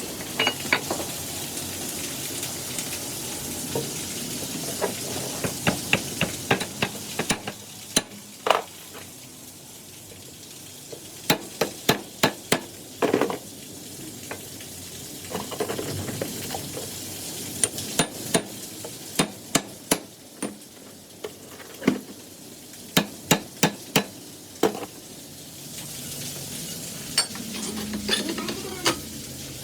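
Metal tools and parts being handled: irregular sharp clicks and taps, several in quick runs, some ringing briefly, over a steady low hiss.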